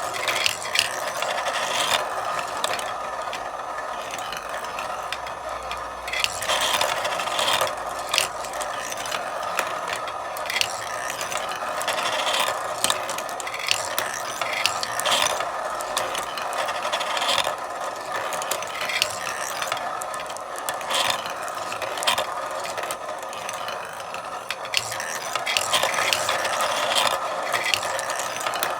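Marbles rolling and clattering along a marble run track, a continuous rattle broken by many sharp clicks as they hit and knock against each other.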